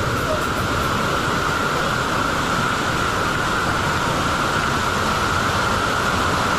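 Small waterfall cascading into a rock pool: a steady rush of falling water that does not change.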